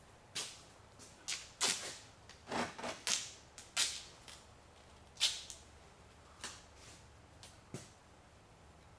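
Handling noises: a quick, irregular run of short, sharp rasps and clicks, thinning out after about five seconds.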